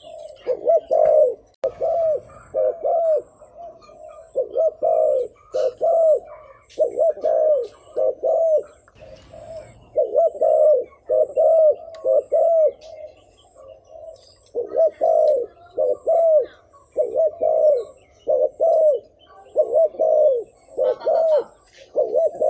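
Spotted dove cooing in quick runs of short, arched notes, repeated over and over with brief pauses. This is the excited 'thúc gù' cooing, used as a lure call to provoke wild males into answering.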